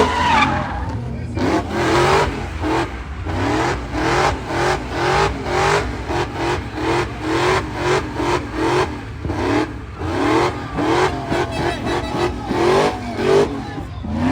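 Car engine revving in quick repeated surges, about two a second, each with a short rising whine, over a steady low engine drone.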